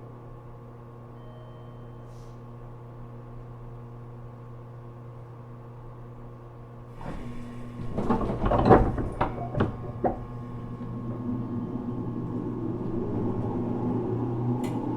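Inside a JR Kyushu 415 series 1500-subseries electric train car: a steady hum, then a cluster of clunks and knocks about eight to ten seconds in, after which the train noise grows louder.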